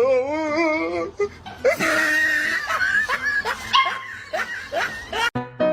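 A dog vocalising: a wavering, whining howl for about a second, then a run of high yips and whimpers. Piano music starts at the very end.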